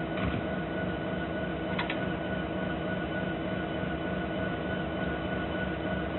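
A train running by: a steady rumble with a few sharp clicks.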